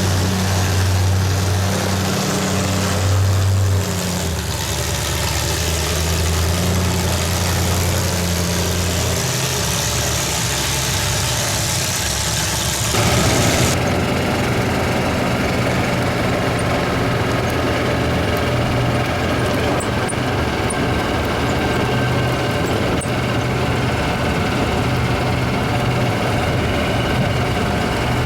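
A vehicle engine running steadily, a low drone whose pitch steps down a few times.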